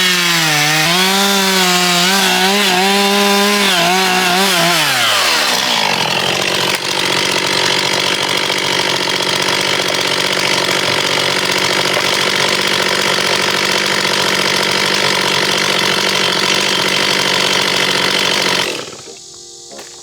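Chainsaw running at full throttle cutting through wood, its engine note dipping and recovering under load; about five seconds in the pitch falls away, and a steady loud cutting noise follows until it stops abruptly near the end.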